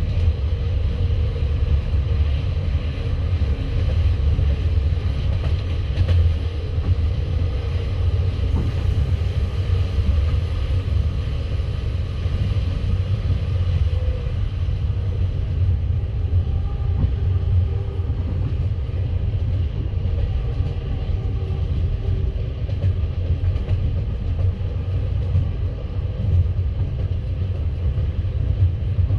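Passenger train carriage running at speed: a steady low rumble of the wheels on the rails, heard from inside the car.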